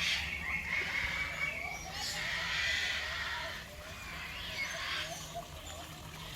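Birds calling, with three drawn-out screechy calls spaced about two seconds apart, and people talking faintly.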